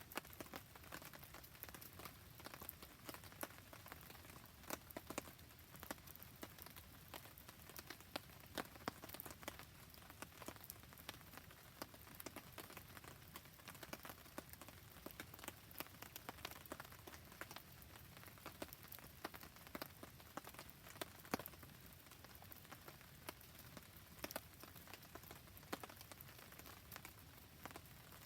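Rain falling with a campfire burning: a faint, steady hiss of rain scattered with many small, irregular ticks and pops from drops and crackling wood.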